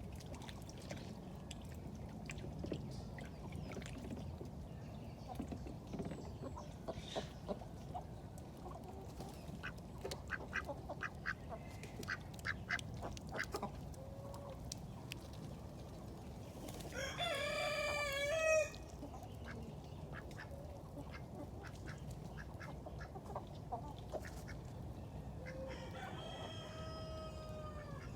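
Backyard poultry calling: a rooster crows loudly about two-thirds of the way through and again more faintly near the end, dropping in pitch. Short clucks and duck calls sound throughout.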